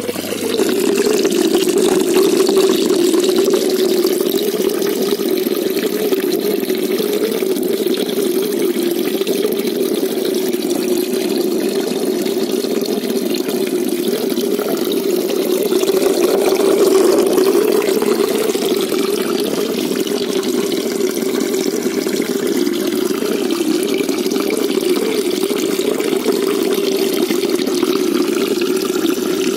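Steady running water in a shallow koi pond, an even rushing and trickling that goes on without a break.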